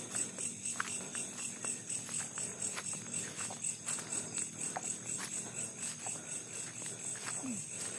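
Crickets or similar insects chirping in a steady high-pitched pulsing trill, about five pulses a second, with scattered faint ticks and rustles underneath.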